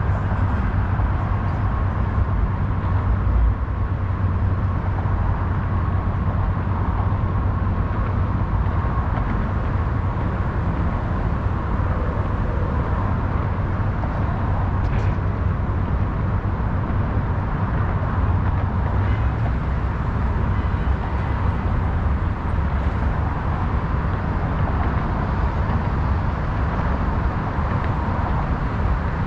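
Steady city ambience dominated by continuous road-traffic rumble, with a faint steady high tone running under it.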